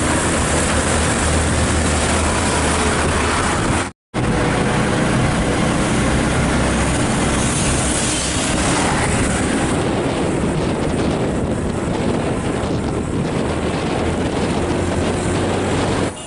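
Heavy diesel truck engine running loud and steady, with a deep low rumble under a wash of noise. The sound drops out abruptly for a moment about four seconds in, then returns.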